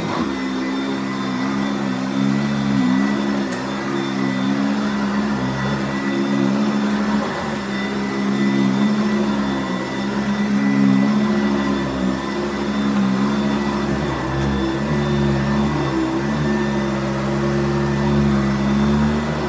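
Sanitaire SC688 commercial upright vacuum cleaner running while vacuuming: a steady motor hum whose pitch wavers slightly as it is worked back and forth.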